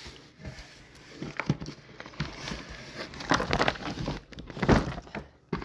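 Packaging rustling and crinkling as items are handled, with irregular knocks and clatters, the loudest a little over three-quarters of the way through.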